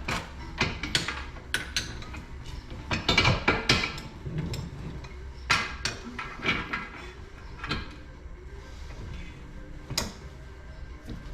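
Irregular metal knocks and clatter of hand tools being worked and set down, a dozen or so sharp hits, the loudest a cluster about three seconds in.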